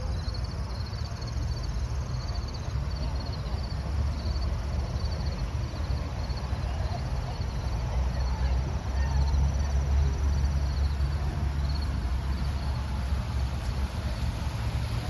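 Outdoor ambience: a steady low rumble, swelling somewhat past the middle, with faint high chirps repeating throughout.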